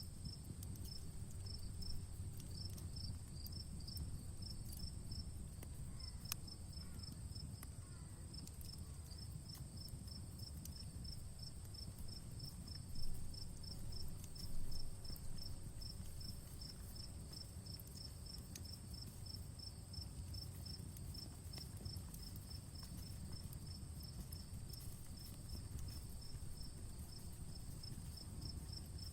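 Outdoor campfire crackling with scattered small pops over a low steady rumble, and two louder pops about halfway through. Behind it, insects chirp evenly, two or three chirps a second, over a steady high insect trill.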